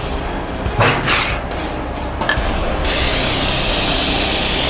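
Tire-mounting work with shop tools and a tire changer: brief scraping and ratcheting mechanical noises, then a steady hiss that starts about three seconds in.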